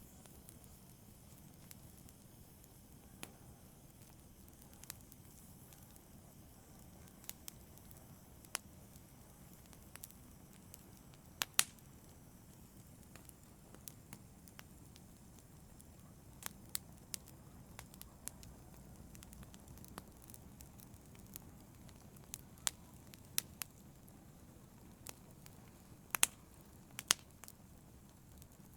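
Wood fire burning in a fireplace: irregular sharp crackles and pops over a faint low rumble of the flames, with the loudest pops about a third of the way in and near the end.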